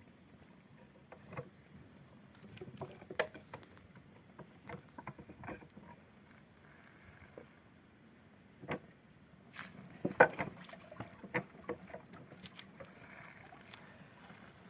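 Scattered, irregular knocks and clatters of objects being handled, with the loudest cluster about ten seconds in.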